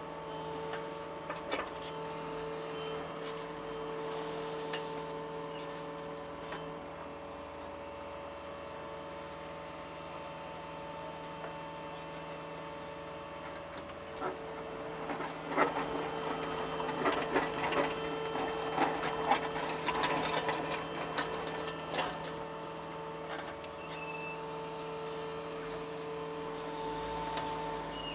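John Deere 75 excavator's diesel engine and hydraulics running with a steady hum, heard from inside the cab. From about halfway through, a run of knocks and rattles lasting several seconds comes over the hum as the machine digs.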